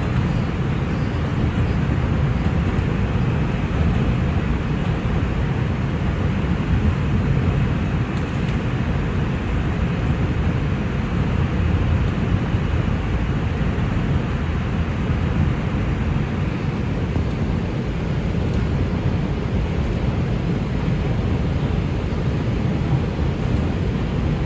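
R142 subway train running at speed between stations, heard from inside the car: a steady, even rumble of wheels on rail, deepest in the low end.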